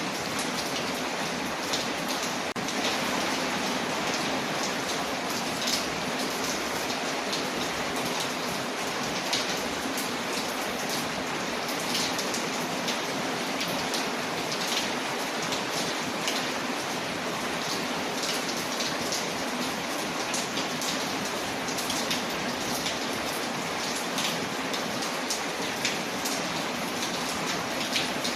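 Ambience of steady rain on a window layered with a crackling fireplace: an even hiss of rain, dotted throughout with many small sharp ticks and pops.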